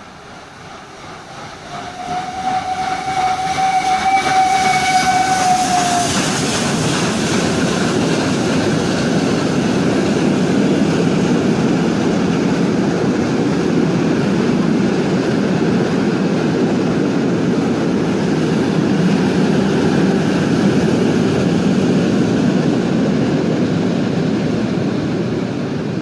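A train sounds its horn, one held note lasting about four seconds, as it approaches. It then passes close by with a loud, steady rumble that lasts some twenty seconds before fading away.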